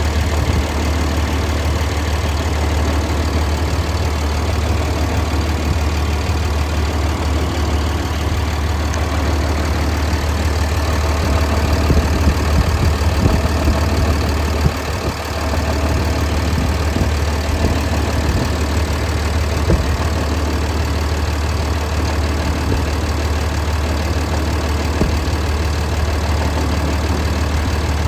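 Cummins ISB diesel engine idling steadily, a deep, even drone.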